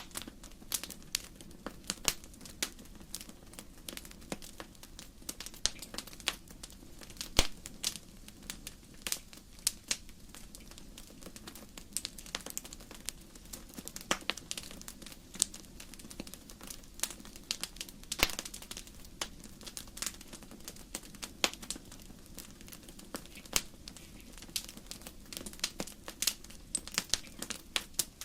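Burning firewood crackling in a fireplace: a steady low hiss and rumble of the flames, with irregular sharp pops and snaps, a few of them loud.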